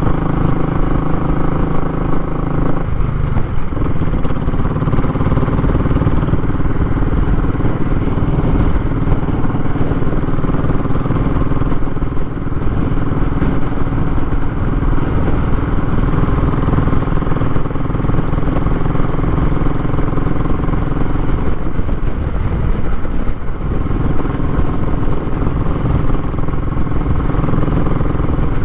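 Royal Enfield Classic 500's 499 cc single-cylinder engine running through a short, raw-sounding muffler with a steady exhaust note. The note changes pitch briefly about three seconds in and again about three quarters of the way through.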